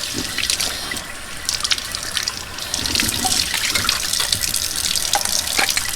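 Kitchen tap running hot water over milking equipment held under the stream, splashing into the sink with small knocks of the parts being handled.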